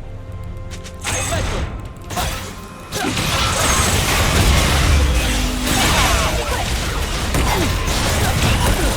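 Trailer-style music mixed with mechanical and crashing sound effects. A few separate hits come in the first three seconds, then the mix turns into a loud, dense rumble.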